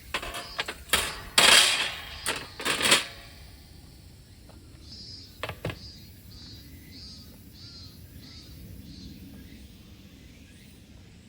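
A clatter of hard objects being handled, several sharp knocks and rattles in the first three seconds. After that a bird chirps faintly and repeatedly over quiet outdoor background.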